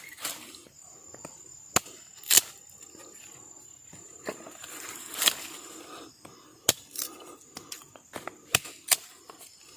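Insects of the night forest keep up a steady high buzz, broken by about seven sharp clicks and knocks at uneven intervals. The loudest knock comes about two and a half seconds in.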